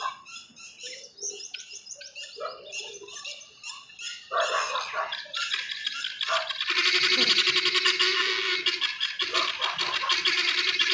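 Birds squawking and chirping in short, overlapping calls. About two-thirds of the way through, a steady droning sound starts and stays louder than the calls.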